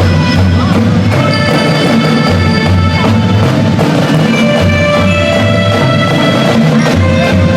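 Marching band playing: held pitched notes over a steady beat of drums.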